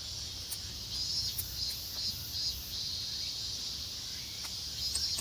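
Insects chirping in a steady run of short high pulses, with a few faint clicks and low rumble underneath.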